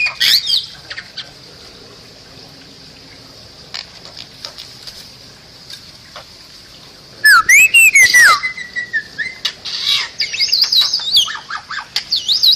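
Bali myna singing: a few sharp calls at the start, a pause of several seconds, then loud gliding whistles about seven seconds in, followed by a quick run of chattering notes.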